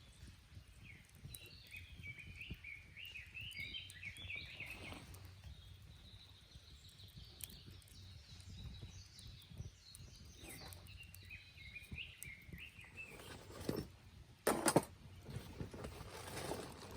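Bird song outdoors: repeated chirping phrases early on and again later, over a low steady outdoor rumble. Near the end come a couple of sharp knocks or clatters.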